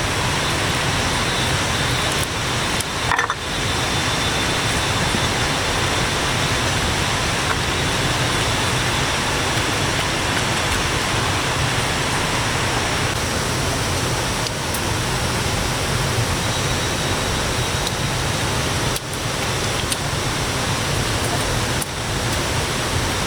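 Steady, loud rushing noise, dipping briefly a few times.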